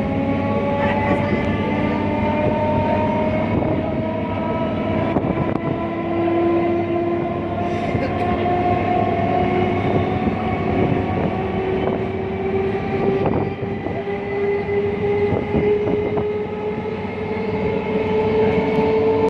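Passenger train gathering speed, its drive giving a whine that rises slowly and steadily in pitch, with scattered clicks and knocks from the wheels on the track.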